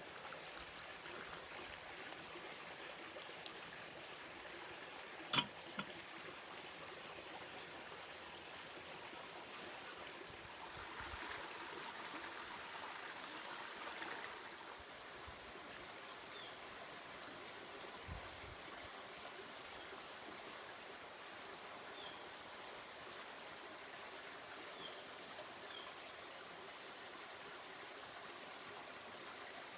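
Steady rushing of running water, like a stream. A sharp click about five seconds in, a smaller one just after, and faint short high bird chirps through the second half.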